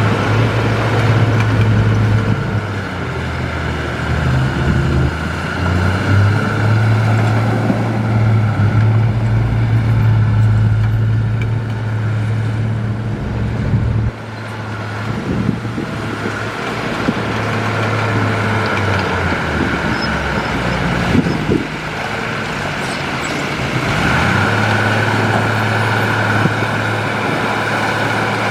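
Diesel engine of heavy earthmoving machinery running with a low steady drone that shifts in pitch and level as the load changes. The drone dips briefly about halfway through, and a few faint knocks follow.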